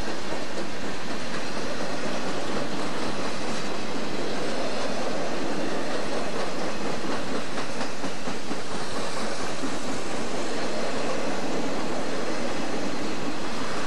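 Freight cars of a Southern Pacific train rolling past close by: a steady rumbling rattle of steel wheels on rail, with a faint clicking from the wheels running over the track.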